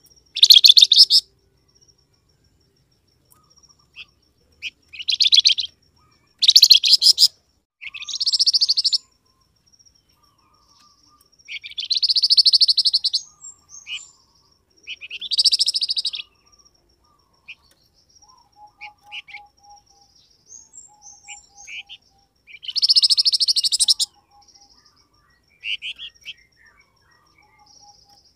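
A flamboyan songbird calling: about eight loud, harsh, rattling bursts about a second long each, with short pauses between them, and faint softer chirps in the gaps.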